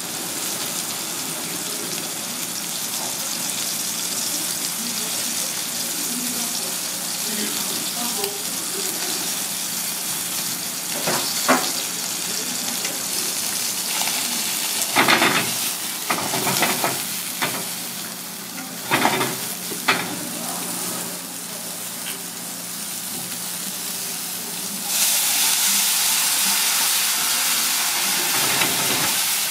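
Lobster meat sizzling in hot fat in a small cast-iron wok over a gas flame. Partway through, beech mushrooms are dropped and stirred in with a few louder bursts of clatter and spitting, and the sizzle grows louder near the end.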